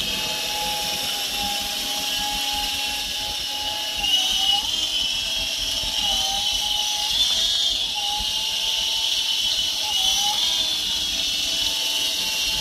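A cheap 3.5-channel electric RC helicopter in flight, its motors and rotors whining steadily. The pitch dips briefly a few times as the throttle is worked, on a battery the pilot says is dropping off.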